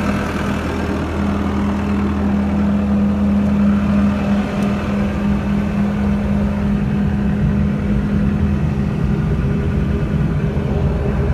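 Turbocharged diesel engine of a John Deere 323D tracked skid steer running steadily at a constant speed. Its deep rumble turns rougher about four and a half seconds in.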